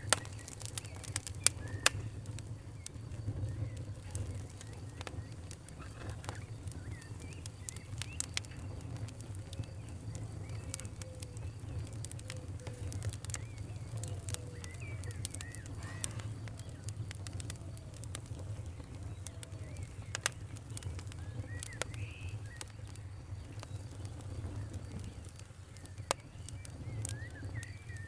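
Wood fire crackling, with irregular sharp pops over a steady low rumble, the loudest pops in the first two seconds. Small birds chirp now and then in the background.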